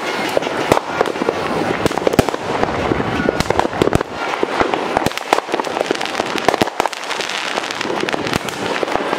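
Fireworks and firecrackers going off at once: an unbroken crackle with many sharp bangs overlapping.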